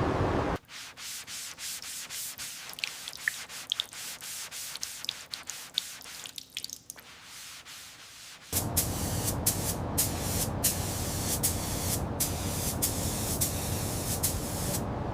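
Abrasive rubbing, like sanding: a quieter run of short scrapes and clicks, then, from about eight and a half seconds in, a louder, steadier rasp with repeated strokes.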